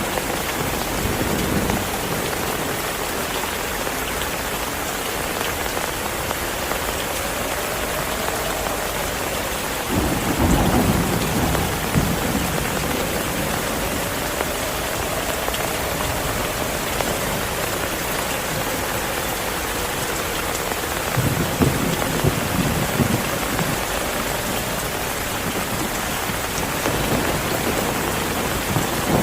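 Heavy rain falling steadily, with low rolls of thunder rumbling several times: about ten seconds in, again past the twenty-second mark, and near the end.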